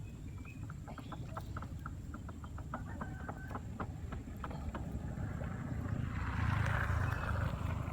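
A chicken clucking in a quick run of short clucks, followed about six seconds in by a brief rushing noise, over a steady low rumble.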